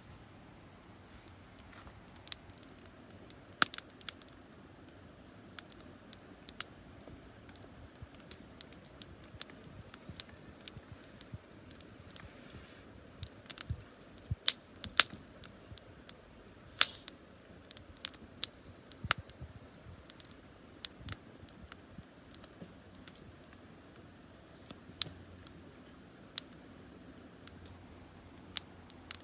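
Scattered sharp little clicks and taps at irregular intervals, like small objects being handled, over a faint steady background.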